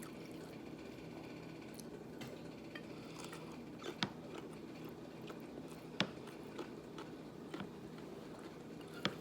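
A person chewing food softly, with a few sharp clicks, the loudest about four seconds and six seconds in.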